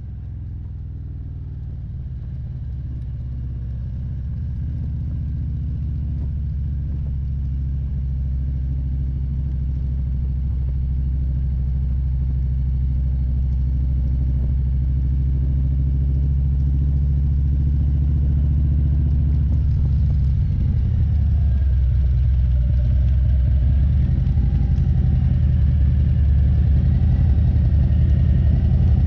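Motorcycle engine running steadily at road speed, a low, even drone, growing gradually louder.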